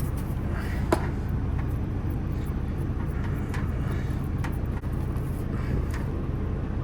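Semi truck's diesel engine idling steadily, a low hum heard inside the cab, with a few light clicks on top, the sharpest about a second in.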